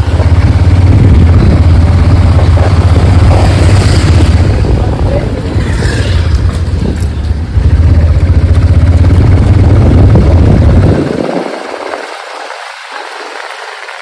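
Motorcycle riding, heard from an on-bike camera: a loud, steady low rumble of engine and wind on the microphone. It drops away sharply about eleven seconds in, leaving much quieter street sound.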